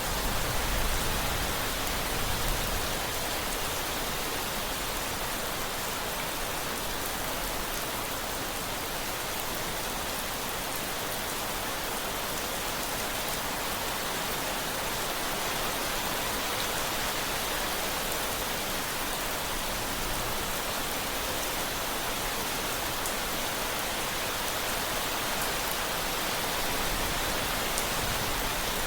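Steady rain falling, an even hiss of drops on surfaces with faint scattered patter, and a brief low rumble swelling in the first couple of seconds.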